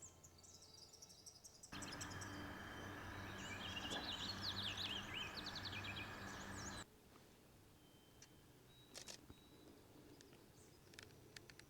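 Outdoor ambience with small birds chirping in quick, high, twittering notes. From about two seconds in to nearly seven seconds, a steady hiss of background noise comes in with the densest chirping, then cuts off abruptly, leaving a few scattered chirps.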